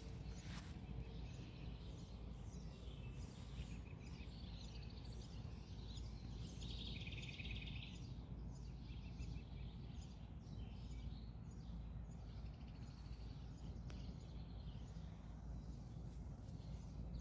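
Several songbirds chirping and calling in short, scattered calls, with one denser trilled call about seven seconds in, over a faint steady low rumble of background noise.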